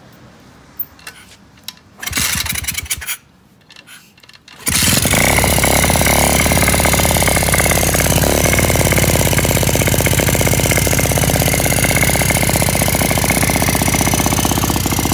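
A 125cc pit bike engine being started. It turns over briefly about two seconds in, goes quiet, then catches nearly five seconds in and runs steadily at a high idle that will not settle to a steady pace.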